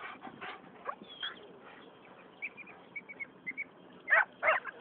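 Short animal calls: scattered small chirps, then a cluster of louder calls that bend in pitch about four seconds in.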